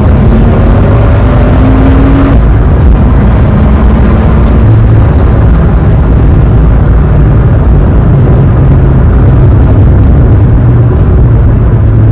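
BMW N55 turbocharged inline-six in an E46, heard from inside the cabin, pulling under acceleration. Its note rises in pitch, drops at a gear change about two seconds in, then runs steadier and lower.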